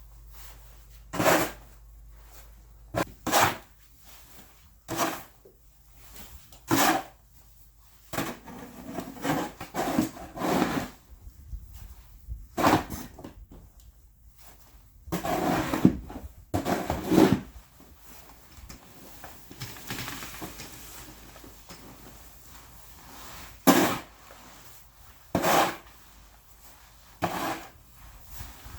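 Irregular short scrapes and knocks, roughly one every one to two seconds, with a couple of longer scraping stretches near the middle.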